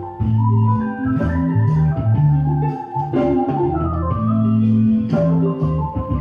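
Background music led by an electronic organ, playing held chords that change every half second or so over a steady bass line.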